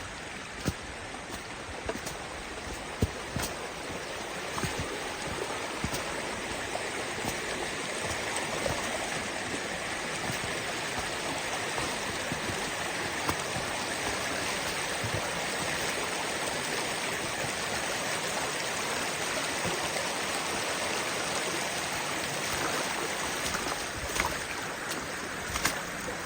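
Steady rush of a rocky canyon creek, Kanarra Creek, with scattered sharp clicks over it.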